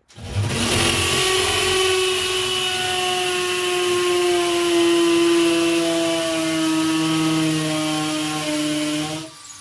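Power drill running under load as it bores a hole, its motor whine slowly sinking in pitch, then dropping off sharply about nine seconds in.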